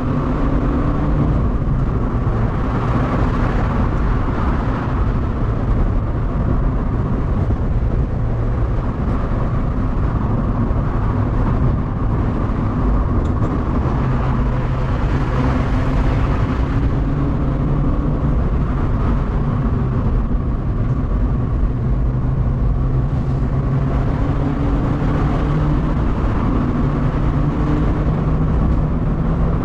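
Mazda MX-5 NB's four-cylinder engine under way on a winding road, its revs rising and falling several times, over steady road and wind noise, heard from inside the cabin.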